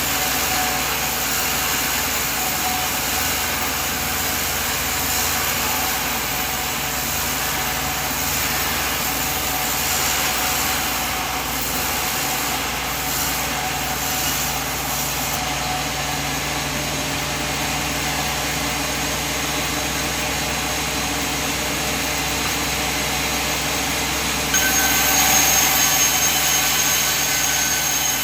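A sawmill machine's engine running steadily. Near the end it gets louder and a high whine joins in.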